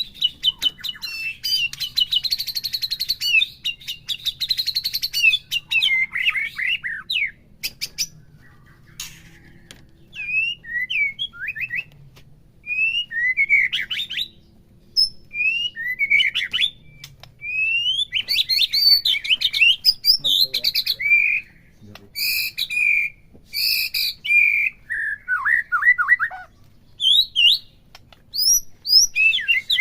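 White-rumped shama singing: a long run of varied whistled phrases and fast chattering notes, broken by short pauses, with a few sharp clicks among them.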